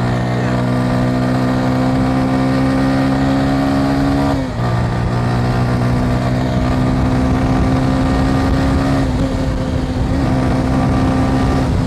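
Motorcycle engine accelerating, its pitch climbing steadily, then dropping at a gear change about four and a half seconds in, climbing again and levelling off. A low wind rumble on the microphone runs underneath.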